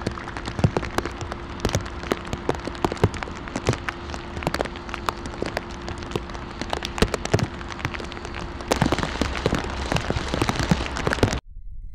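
Heavy rain falling, with many sharp drop impacts close by over a steady hiss. The sound cuts off suddenly near the end.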